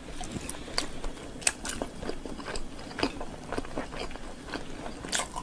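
Mukbang eating sounds: wet chewing and lip-smacking as a woman eats large dumplings, heard as irregular sharp smacks several times a second.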